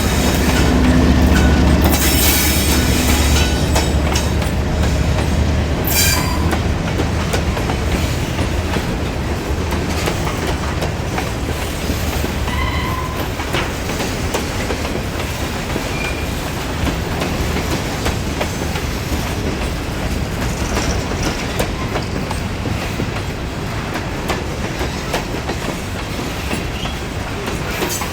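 Freight train rolling by on the rails, its cars clattering over the rail joints, with a low engine drone that fades over the first several seconds. Short high wheel squeals come about two and six seconds in.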